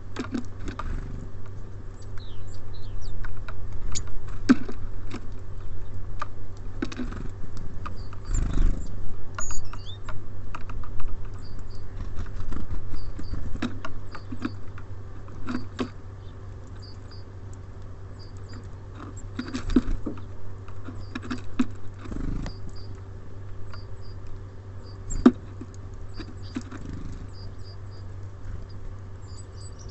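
Small birds at a feeder: irregular sharp taps and clicks of pecking and landing on the feeder, with short high peeps, often in pairs, from about twelve seconds in. A steady low hum runs underneath.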